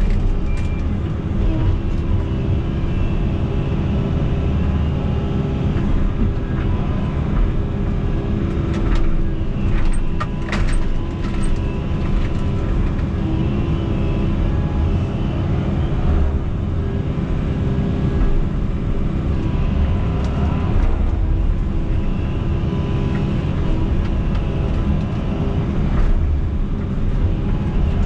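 Excavator's diesel engine running steadily under load, heard from inside the cab, with a few sharp clicks and knocks about ten seconds in.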